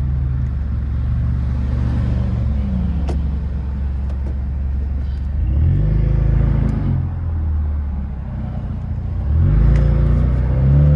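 BMW F32's turbocharged N20 four-cylinder engine and exhaust running steadily at low revs. The revs jump up briefly around five and a half seconds and fall back, then near nine and a half seconds they rise again, still climbing at the end as the car accelerates hard.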